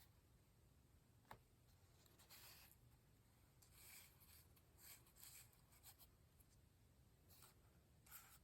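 Faint rustling and scraping of paper cutouts being handled and slid across a paper page, in a few soft bursts, with one small tick about a second and a half in.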